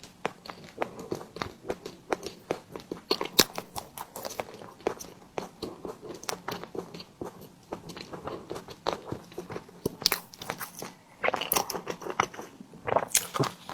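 Close-miked eating: a person chewing a soft tiger skin dessert, with a steady run of irregular, sharp, wet mouth clicks and a few louder bursts near the end.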